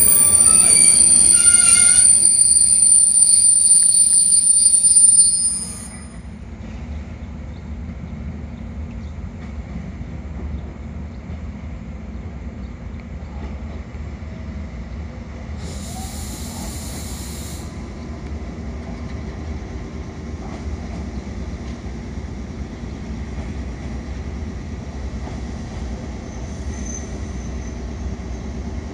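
A train pulling into the station platform, its wheels and brakes squealing with high, steady screeching tones for about the first five seconds. The sound then drops suddenly to the steady low hum of the train standing at the platform, with a short hiss about sixteen seconds in.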